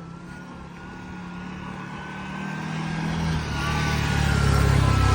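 A motor vehicle's engine running, growing steadily louder over the second half, with a thin whine above the engine note.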